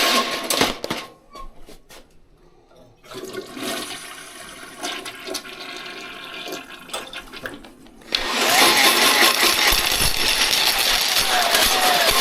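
A toilet flushing. A loud rush of water dies away in the first second, quieter running water comes in after about three seconds, and a second loud flush starts about eight seconds in.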